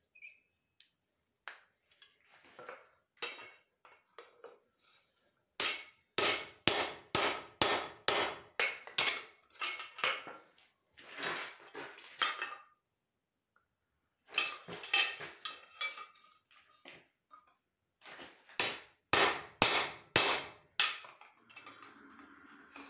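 Hand hammer striking steel on an anvil: a few light taps, then three runs of hard ringing blows, about two to three a second, with short pauses between the runs.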